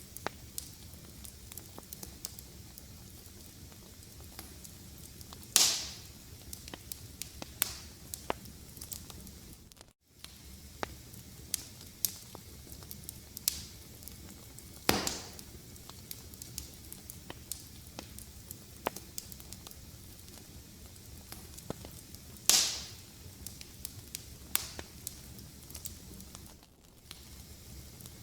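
Fireplace fire crackling, with a steady low hiss and frequent sharp ticks, and three louder pops spaced several seconds apart. The sound drops out for a split second about a third of the way through.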